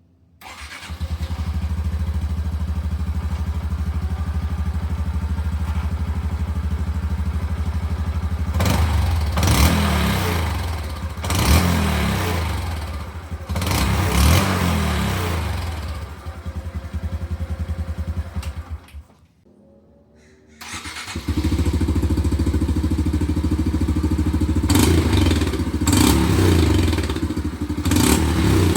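2024 Honda Trail 125's single-cylinder four-stroke engine starting and idling through a billet exhaust end cap that replaces the stock spark-arrestor baffle, then revved in three short blips. After a brief quiet gap it idles again, with several more quick revs near the end.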